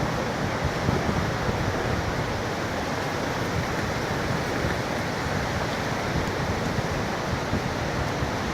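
Gale-force wind and breaking surf: a steady wash of noise with uneven low buffeting from the wind on the microphone.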